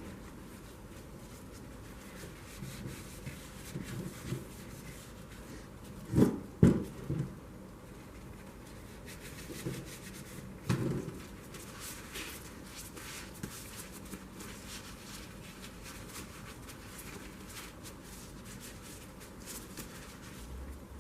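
Handling noises: light rubbing and shuffling with a few dull knocks, the loudest a cluster of knocks about six seconds in and another near eleven seconds.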